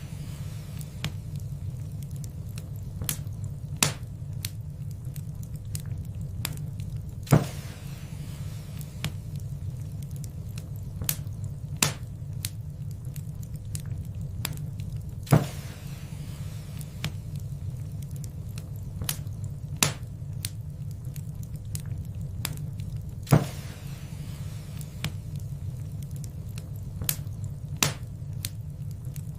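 Wood fire in a fireplace crackling: a steady low rumble of burning with irregular sharp pops and clicks, the louder pops every few seconds, some trailing off in a short hiss.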